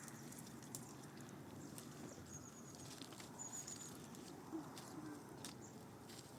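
Faint outdoor ambience: a low steady hiss with scattered light clicks and two brief high, chirping trills about two and three seconds in.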